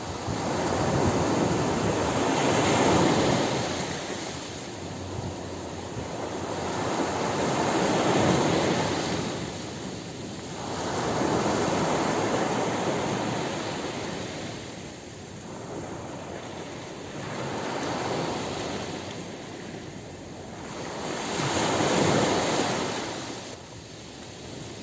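Ocean surf on a beach: waves breaking and washing up in a slow swell-and-fade rhythm, about one every four to five seconds.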